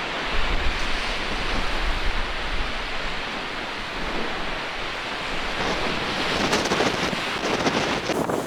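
Strong mistral gale buffeting the microphone over storm surf breaking on the shore: a heavy low rumble of gusts in the first few seconds, then a brighter rush of surf and spray about six seconds in.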